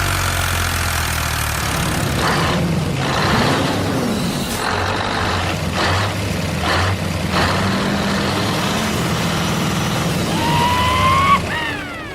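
Heavy truck engine running steadily, with several short air-brake-like hisses and a rising whine about ten seconds in.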